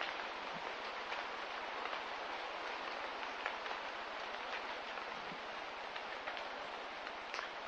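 Steady hiss of rain with scattered drops ticking through it.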